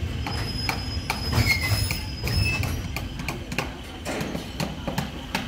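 Passenger train coach rolling slowly into a station: a low rumble from the running gear with irregular clicks and knocks from the wheels over the track, and a faint thin high squeal in the first half.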